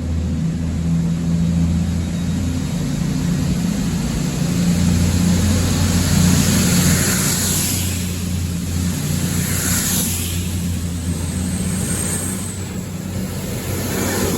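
A train's engine running steadily at a station with a low, even hum. Two brief hissing swells come around the middle.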